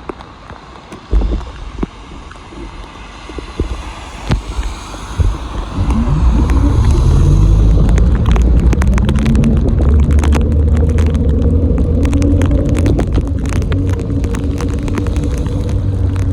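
Heavy low rumble of wind on the microphone and road noise while cycling in the rain, growing much louder about six seconds in, with many sharp ticks through the second half.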